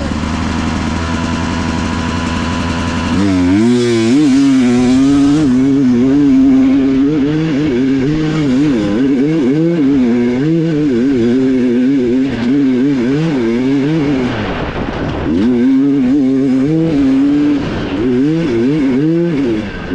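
Dirt bike engine, recorded on board, running steadily at low revs for about three seconds, then pulling away hard. From then on its pitch rises and falls constantly as the throttle is worked. It drops briefly about fourteen seconds in, then picks up again.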